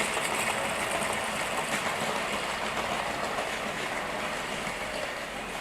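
Model train running along the layout track: a steady running noise that grows gradually quieter.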